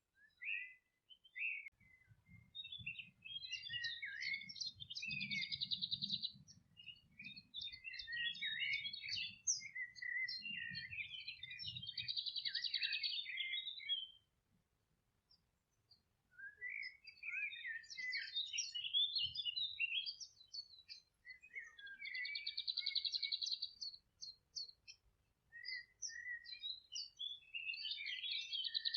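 Songbirds singing: long, varied phrases of chirps and buzzy trills, with a short pause about halfway through before the song picks up again. A faint low rumble lies under the first half.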